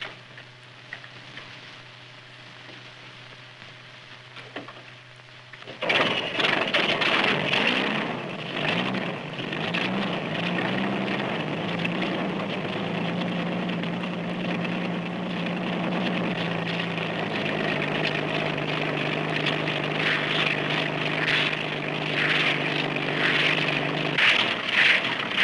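Small engine of a homemade reciprocating flat-plate helicopter, starting suddenly about six seconds in and running steadily. Its pitch rises at first, drops slightly partway through, and the sound turns uneven and bursty near the end. A faint steady hum from the old film soundtrack is heard before it starts.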